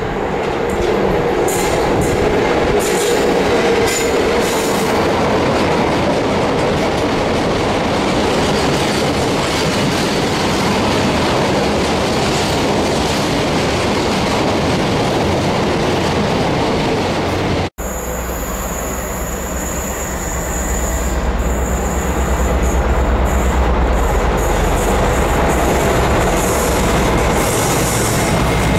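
A Class 66 diesel-electric freight locomotive and its train of empty open box wagons roll past with wheel and wagon noise and a squealing tone in the first few seconds. After a cut about two-thirds through, a Class 60 diesel locomotive hauling tank wagons approaches, its engine a deep rumble under the wheel noise.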